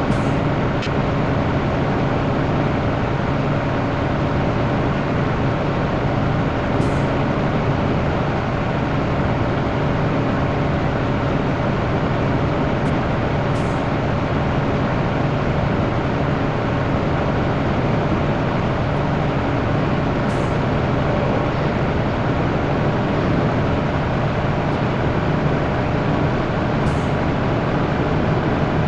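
Scania T113 truck's diesel engine running steadily under way, with a faint short high tick about every seven seconds.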